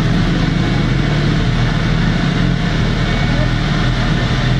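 Motorcycle engine running at a steady speed on a dynamometer, with a loud, even, low pulsing and no change in pitch.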